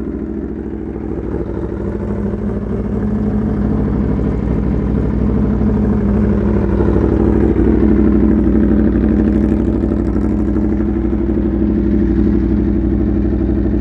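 2016 Aprilia Tuono RR's V4 engine idling through an SC Project CR-T aftermarket exhaust. The idle swells slightly over the first few seconds, then holds steady.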